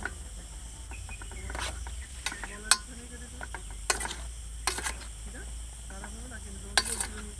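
Cooking utensils knocking and clinking against a pot in about six sharp, irregular strokes, over a steady chirring of crickets.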